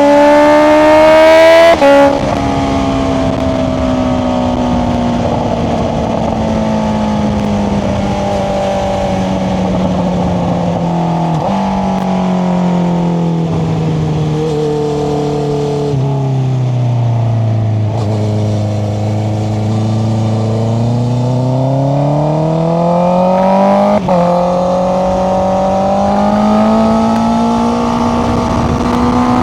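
Honda CBR650R's inline-four with an Akrapovic exhaust running under way. It revs up and drops sharply on a gear change about two seconds in, then sinks slowly through a long slow-down with a couple of short steps in pitch. It climbs again, drops once more on another shift about three-quarters of the way through, and pulls up steadily at the end.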